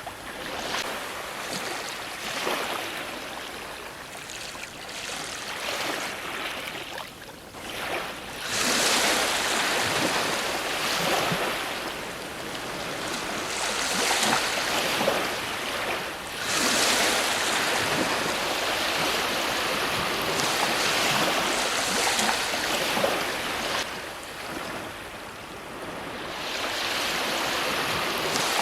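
Ocean waves breaking and washing up a shore, a steady hiss of surf. It is lower for the first several seconds, then swells with louder breakers about every few seconds.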